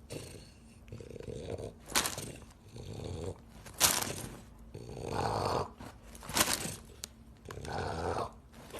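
A dog's irregular noises, broken by a few sharp clicks.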